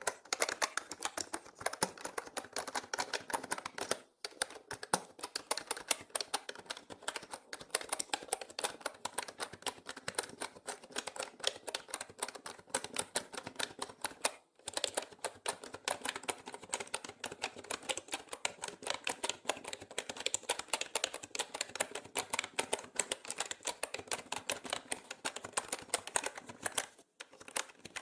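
Fast, continuous typing on a mechanical keyboard, a dense stream of key clicks that breaks off briefly three times.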